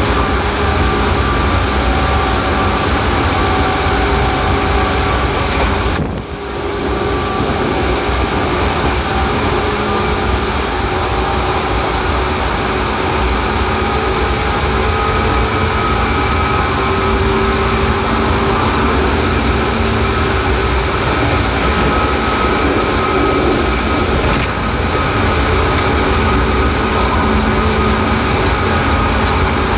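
Seibu 4000 series electric train running at speed, heard from inside the car, mostly through a tunnel: a steady rumble of wheels and traction motors with a few held tones, dipping briefly about six seconds in.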